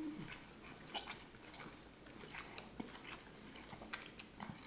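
Faint chewing of mouthfuls of a sub sandwich, with scattered small wet mouth clicks.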